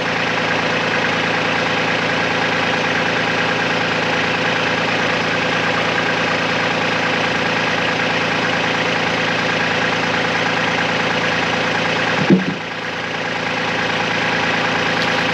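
Kubota tractor's diesel engine running steadily at idle, with one short clunk about twelve seconds in.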